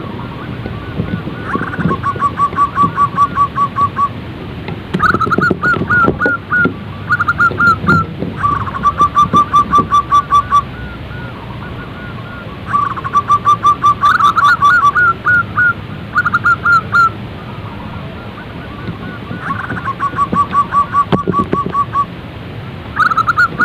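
Zebra doves singing: phrases of quick, evenly spaced staccato coos, each lasting a second or two and recurring every few seconds, at a higher and a lower pitch that sometimes overlap.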